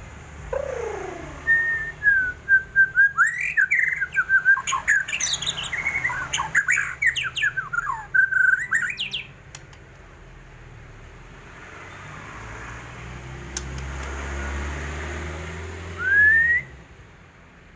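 White-rumped shama singing a fast, varied song of whistles and chattering notes for about nine seconds, then a single rising whistle near the end, with a low rumble in between.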